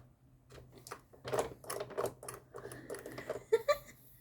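Plastic clicks and knocks from handling a capsule coffee machine, fumbling at its parts, with a quick burst of sharp clicks about three and a half seconds in. A low steady hum runs underneath.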